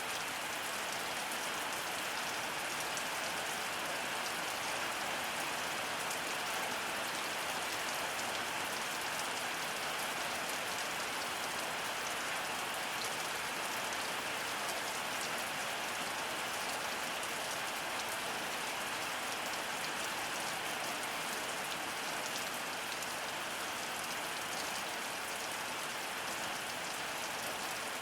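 Heavy rain falling steadily: a dense, even hiss of rain with fine ticks of individual drops, holding at one level throughout.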